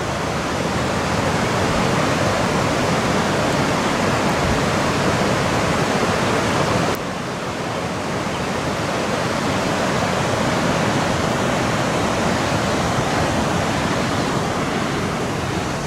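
Steady rushing hiss of steam venting from a fumarole, dropping slightly in level about seven seconds in.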